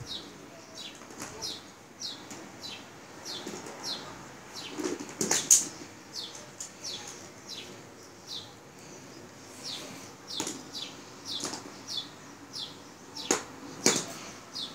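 A small bird chirping steadily, short high chirps falling in pitch, one or two a second. A few sharp knocks of hard plastic, from toy figures and an upside-down plastic bucket being handled, stand out above it.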